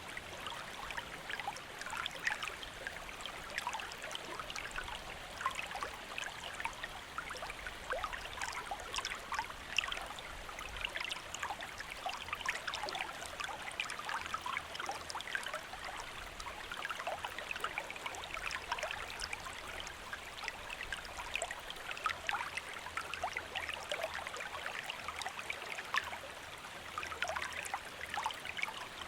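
Shallow stream babbling and trickling steadily, with many small splashes and gurgles.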